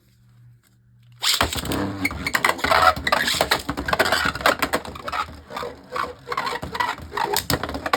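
Harmony Pegasus and Bushin Ashindra Beyblade Burst tops launched into a plastic stadium about a second in, then spinning, scraping and clashing against each other with many quick clacks.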